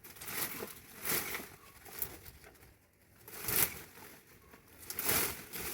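Bursts of rustling and snapping, about one a second, as thorny bougainvillea branches are hacked and pulled apart.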